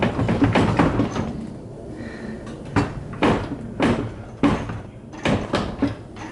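Irregular run of sharp knocks and clicks as an engine hanging from a crane is shoved and rocked against the transmission to line it up. A quick cluster comes in the first second, with more spread over the second half.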